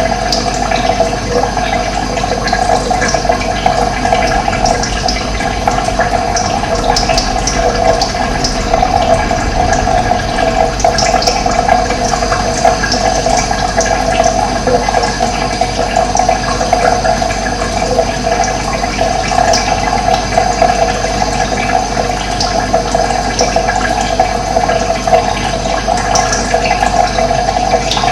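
Steady running water rushing without a break, with short high bird chirps scattered through it.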